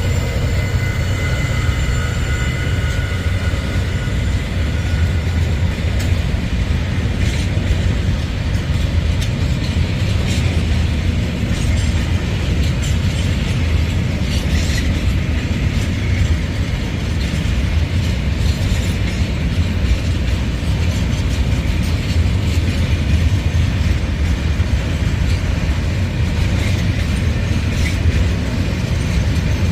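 Diesel train running on the rails with a steady low rumble. A high whine sounds in the first few seconds and fades, and from about six seconds in the wheels add irregular clicks and clacks over the rail joints.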